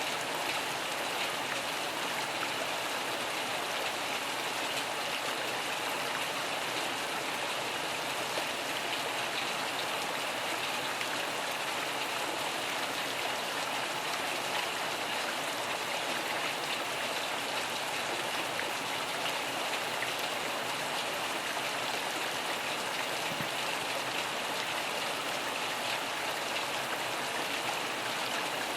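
Steady rainfall: an even hiss of many drops that holds constant throughout.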